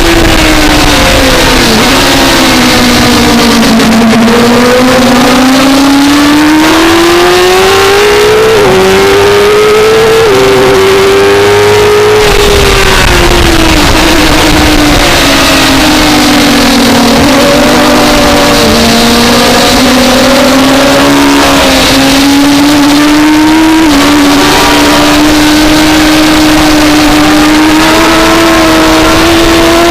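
On-board sound of a 2004 Suzuki GSX-R600's inline-four engine at racing speed. Its pitch falls over the first few seconds, climbs, then falls again through the middle and rises slowly near the end. Quick pitch jumps mark gear changes, over a constant rushing noise.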